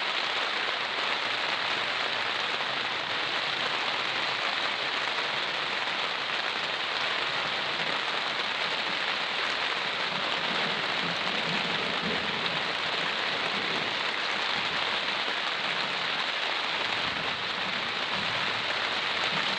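Steady rain falling and pattering on surfaces during a thunderstorm.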